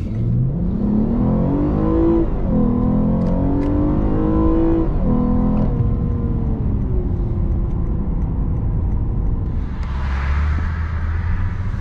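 Lexus RC 350 F Sport's 3.5-litre V6 on its standard air intake, accelerating hard through the gears, heard inside the cabin with the windows up. The engine note climbs, drops at upshifts about two and five seconds in, then settles lower as the car eases off.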